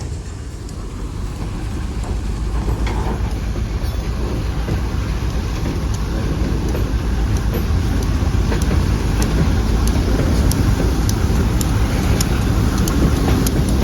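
Freight train with diesel locomotives rumbling steadily and growing slowly louder, with faint regular clicks in the second half.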